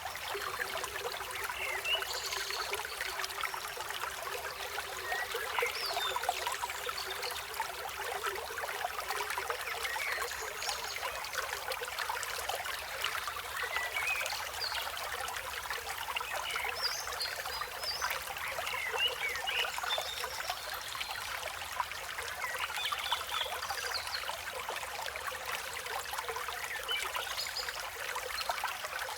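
River water flowing and trickling steadily, with short bird chirps scattered throughout.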